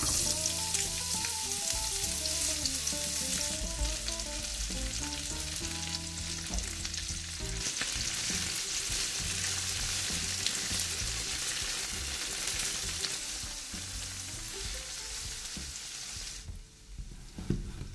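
Sliced onions sizzling in hot oil in a frying pan, a steady frying hiss that stops suddenly near the end.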